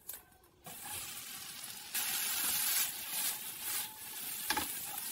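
Dried pollock strips and shishito peppers sizzling in hot oil as they are stir-fried in a wok. The sizzle starts just under a second in and grows louder about two seconds in, with a short clack near the end.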